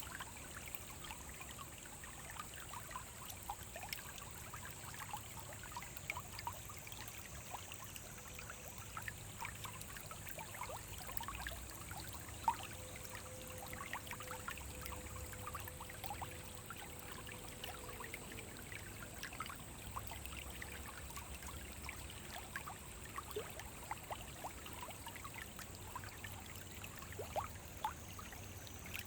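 Small forest stream trickling and gurgling over stones, a steady flow full of small irregular plops and splashes.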